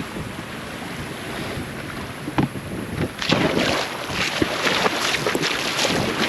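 Small fishing boat being run up onto a sandy bank: water splashing and a run of irregular knocks from about halfway in, with wind buffeting the microphone throughout.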